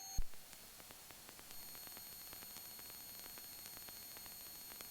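Faint steady hiss on the helicopter's intercom audio feed, with a brief click just after the start.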